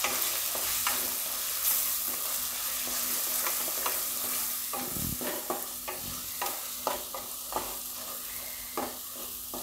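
Onion and spice powders sizzling in hot oil in a kadai while a spatula stirs them, scraping the pan in repeated strokes. This is the masala base for the gravy being fried after the dry spices go in.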